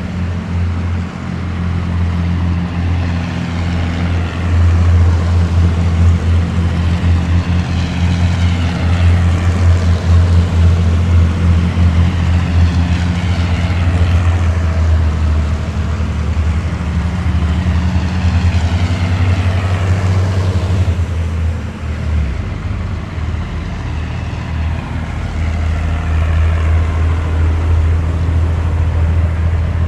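Heavy military vehicles driving past in a column: a steady, loud low engine note, with a whine from each passing vehicle that falls in pitch as it goes by. The engine note changes about two-thirds of the way through, as one group gives way to the next.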